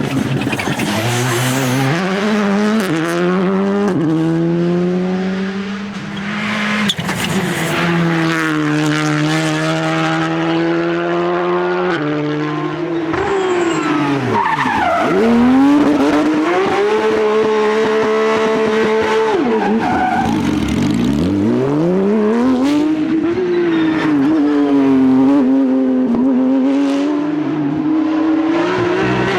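Rally car engines, loud, revving hard and climbing up through the gears, with pitch dropping steeply under braking and rising again on acceleration, twice in the second half.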